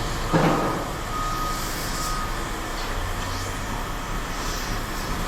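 Heavy vehicle engine running with a steady low rumble, its reversing alarm beeping once about a second in. A sharp knock comes just before the beep.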